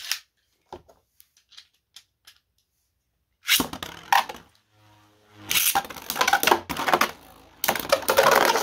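A few light plastic clicks, then 3D-printed Beyblade spinning tops are launched into a stadium. From about halfway through they clatter and grind against each other and the stadium walls, loud and continuous near the end.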